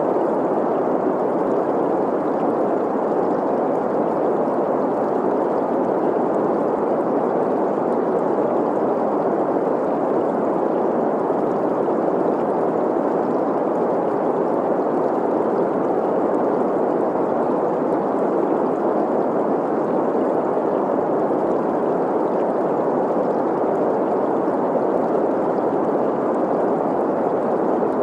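Green noise, a steady mid-pitched hiss, blended with the running water of a stream. It holds even and unchanging throughout.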